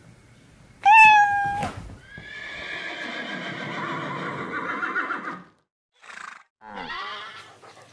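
A horse whinnying: a short high call about a second in, then a long quavering whinny lasting about three seconds, then two short sounds near the end.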